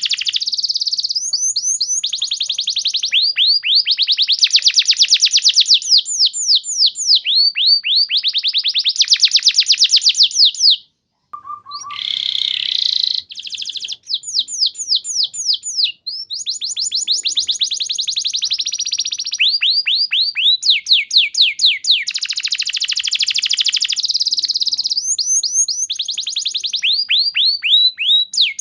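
Canary singing long, rapid trills of repeated falling notes, one run after another, with a brief break and a rougher, noisier passage about eleven seconds in.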